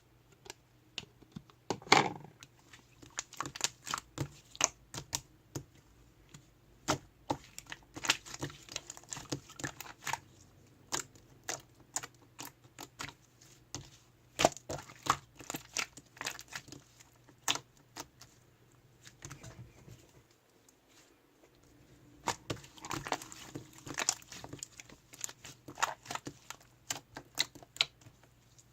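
Irregular clicks and taps with stretches of crinkly rustling, the loudest knock about two seconds in.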